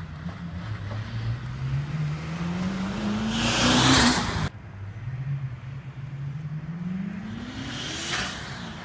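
Twin-turbo Lexus 1UZ-FE V8 accelerating hard past, its engine note rising through the revs to a loud peak as it goes by. It cuts off abruptly about four and a half seconds in. A second run follows, farther off and quieter, with the revs again rising to a peak near the end.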